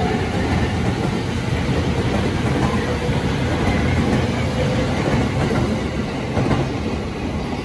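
JR E231 series commuter electric train rolling along the platform track: a steady, loud rumble of steel wheels on rail, easing a little near the end.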